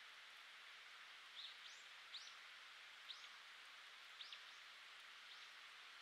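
Faint, short, high bird calls, single or paired notes about once a second, starting a little after a second in, over a steady hiss.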